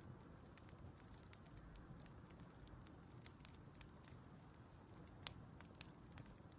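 Faint crackling of a wood fire: scattered sharp pops and snaps over a low steady rumble, with one louder pop about five seconds in.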